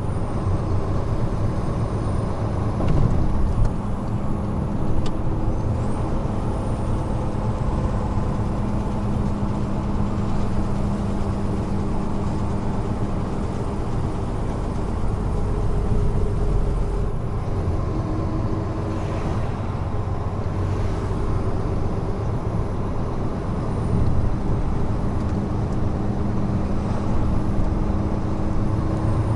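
Heavy truck's diesel engine running at highway speed under steady road and tyre noise; the engine note changes about halfway through and settles again near the end.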